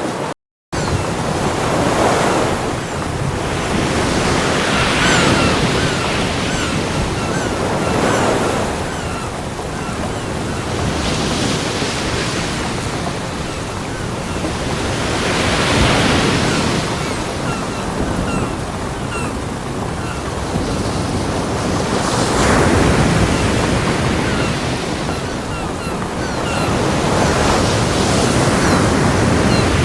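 Ocean surf: waves breaking and washing in, the rush swelling and easing every few seconds. There is a brief cut to silence about half a second in.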